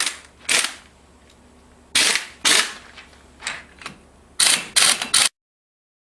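About nine short, sharp bangs from tool work on the UTV's front end, coming in uneven pairs and a closing triple. The sound cuts off abruptly a little past five seconds in.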